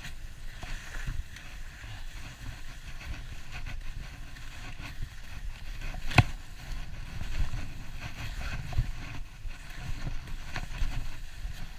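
Skis sliding and scraping over snow on a downhill run, with a steady low rumble of wind on the microphone. A sharp knock comes about six seconds in.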